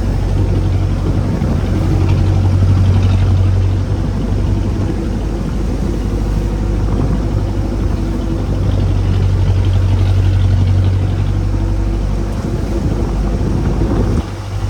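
A small fishing boat's engine running steadily at sea as a low hum, growing louder twice and dropping off suddenly near the end, over rushing wind and water noise.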